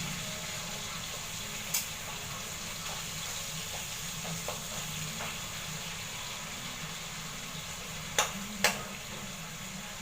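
Chicken adobo sizzling steadily in a pan. Three sharp clicks of a stirring spoon against the pan come about two seconds in and twice in quick succession near the end.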